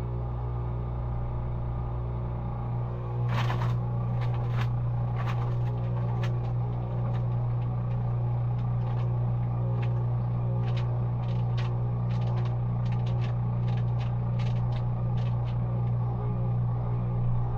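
Maytag washing machine running with a steady low motor hum, which gets louder about three seconds in. Scattered light clicks and knocks come from the machine as it works.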